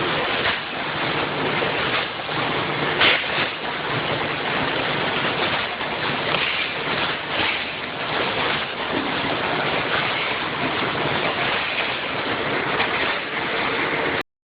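Vertical form-fill-seal snack packaging machine with a multihead weigher running: a steady rushing clatter over a low hum, with occasional sharper knocks, the loudest about three seconds in. It cuts off suddenly near the end.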